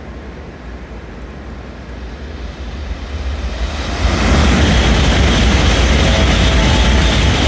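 N700 series Shinkansen passing through a station at speed: a rush of noise builds over the first few seconds, then jumps abruptly louder about four seconds in as the train goes by, and stays loud.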